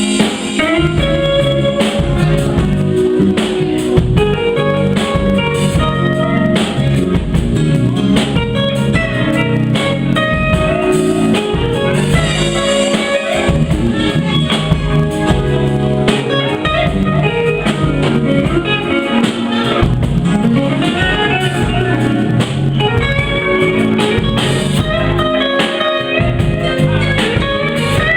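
Live blues band playing, with guitar taking lead lines over a steady bass line.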